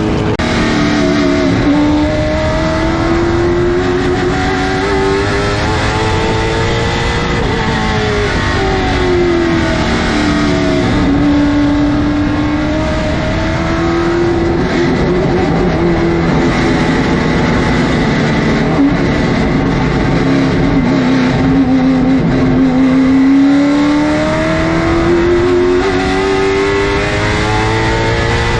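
Late model stock car's V8 engine running at speed on practice laps. Its pitch climbs for several seconds, drops sharply about eight seconds in, holds low and steady for a long stretch, then climbs again near the end.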